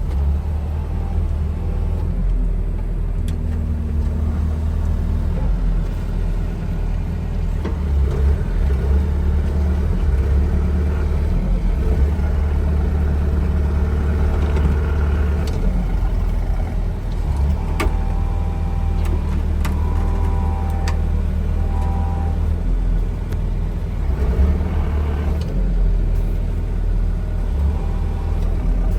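Heavy equipment engine running steadily with a deep rumble under load, its pitch shifting a little now and then, while a stuck skid steer is being towed out of a sinkhole.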